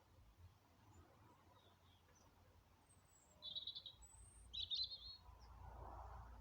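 A bird gives two short, high trilled chirps, about three and a half and four and a half seconds in, over faint outdoor quiet. A low rumble comes up in the background near the end.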